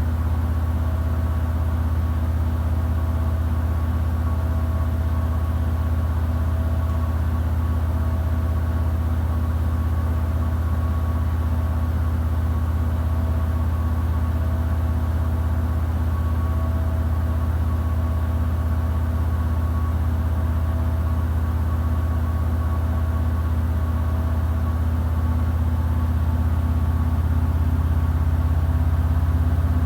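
Samsung WW90J5475FX/AH Digital Inverter washing machine in its spin cycle: a steady deep motor-and-drum hum with a faint tone pulsing on and off, growing a little louder with a change in pitch near the end as the drum speeds up.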